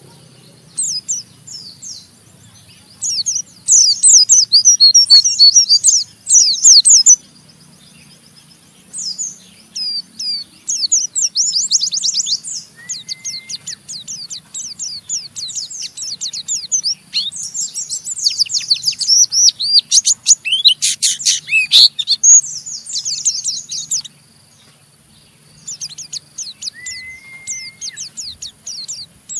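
White-eye (pleci) singing its fast, harsh 'ngeriwik' twitter: bursts of rapid, high sweeping notes separated by short pauses. A short flat whistle sounds twice, about halfway and near the end.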